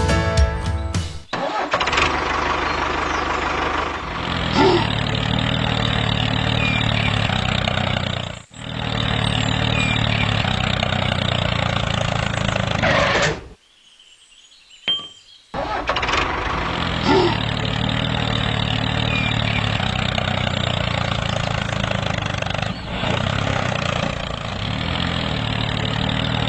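Brief music, then a tractor engine running steadily. It cuts out abruptly twice for a moment and once for about two seconds in the middle.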